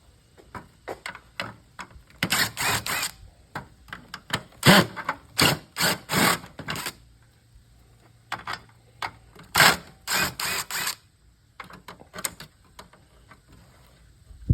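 Irregular sharp clicks, snaps and clatter of hand tools and loose plastic and metal parts as an old CRT television is pulled apart for scrap, coming in three busy clusters with quieter gaps between.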